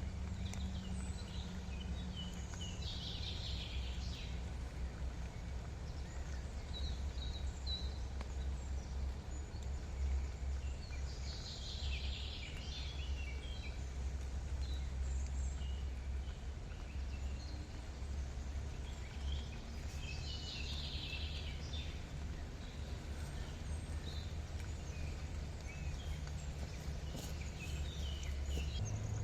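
Birds chirping in short bursts, three clusters of high chirps with scattered single notes between, over a steady low rumble.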